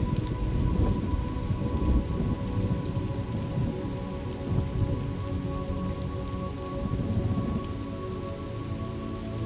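Steady heavy rain on a surface, with low thunder rumbling strongest in the first few seconds and then easing off. Faint sustained tones hum underneath.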